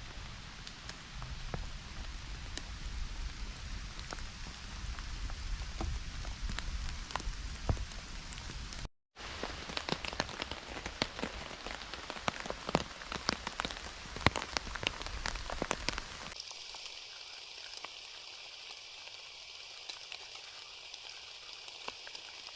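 Rain falling on a tent: a steady hiss with many sharp drop ticks, heavier at times. About two-thirds of the way through, after a cut, the sound turns thinner, with the low rumble gone.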